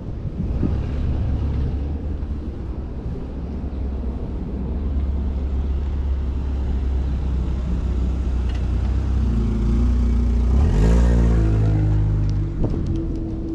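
City road traffic heard from a moving bicycle, with a steady low rumble. A motor vehicle's engine rises in pitch close by about eleven seconds in, then holds steady.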